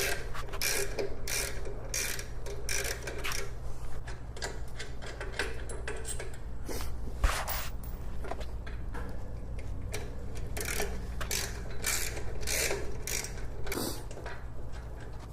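Socket ratchet clicking in repeated strokes as the remaining exhaust flange nuts are loosened, over a steady low hum.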